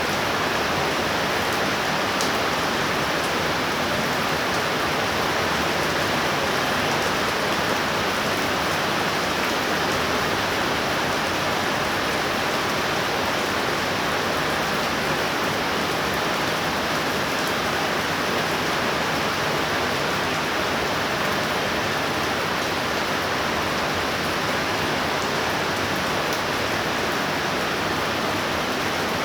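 Heavy rain from a thunder shower falling steadily, an even unbroken hiss of torrential rainfall.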